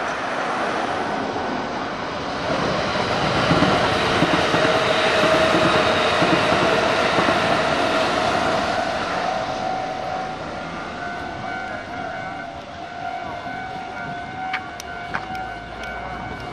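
Kintetsu limited express electric train passing on the track beside the road, its running and track noise growing loud a few seconds in and fading away after about ten seconds.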